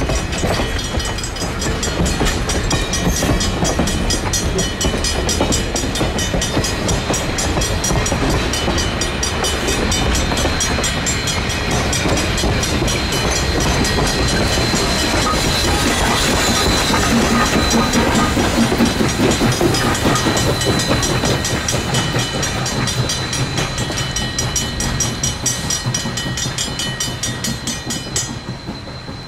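A steam-hauled passenger train (2-8-2 Mikado locomotive #40 and its coaches) rolling past, wheels clicking over the rail joints with a thin steady high whine. The sound drops off a little before the end.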